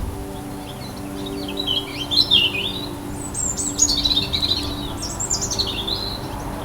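Small birds chirping and twittering in quick runs of high notes that rise and fall, over a low steady hum.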